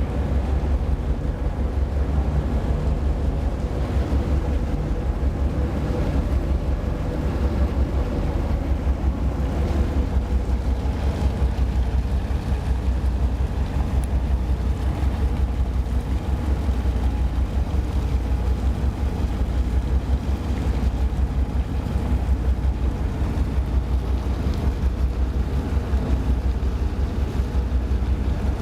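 Engines of the high-speed passenger ship Seahawk idling while moored, awaiting departure: a steady low rumble with a fast pulse.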